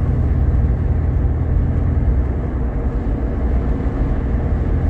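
Steady low engine and road rumble heard from inside the cabin of a moving Jeep Grand Cherokee with the 3.7 L V6.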